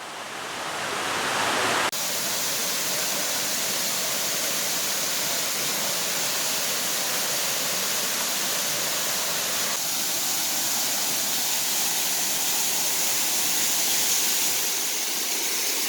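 Juney Whank Falls, a 90-foot two-tier waterfall, rushing in a steady roar of falling water; it swells over the first two seconds, then holds even.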